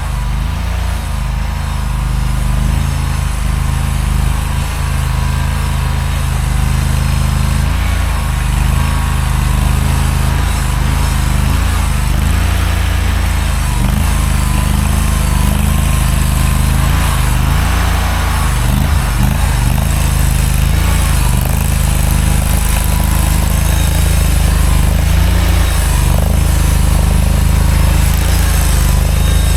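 Mini skid steer's small engine running steadily, with small shifts in its note as it works.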